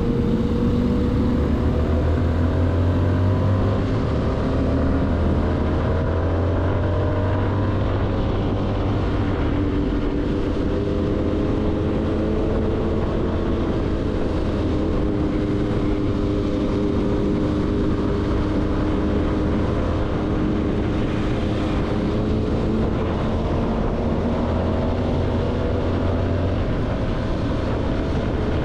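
CFMoto motorcycle engine running under way, its pitch drifting slowly with the throttle and climbing steadily over the last several seconds, over a steady rush of wind noise.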